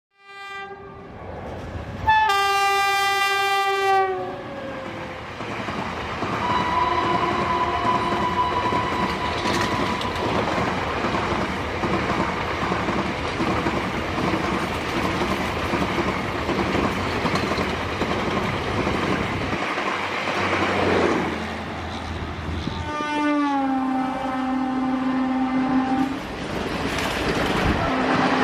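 Garib Rath Express train running, its wheels clattering on the rails under a steady rumble, with locomotive horn blasts. There is a short blast at the start and a long, loud one about two seconds in. Another comes near the end, dropping in pitch as it begins.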